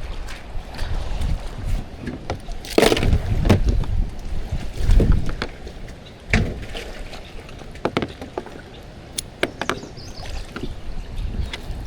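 Kayak being handled and paddled on the water: scattered knocks against the hull and water sounds, over a constant low rumble of wind on the microphone.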